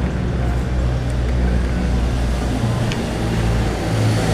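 A motor vehicle's engine running close by: a low, steady rumble whose pitch shifts a little and grows louder near the end.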